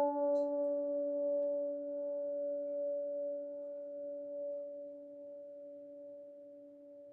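Crystal singing bowls ringing on in a few steady pure tones, slowly dying away.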